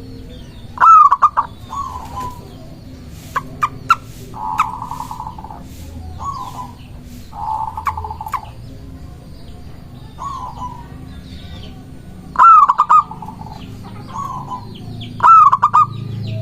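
Zebra doves (perkutut) cooing: three loud bursts of quick staccato coos, with softer single coos between them.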